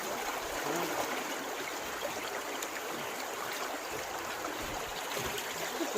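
Steady rushing of flowing stream water, with faint voices in the background.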